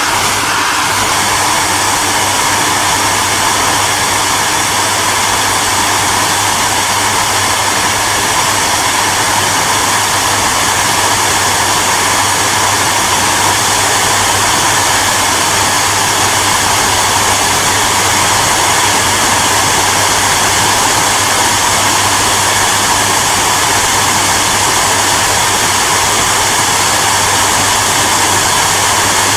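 Hair dryer running steadily: an even rushing of air with a low steady hum underneath.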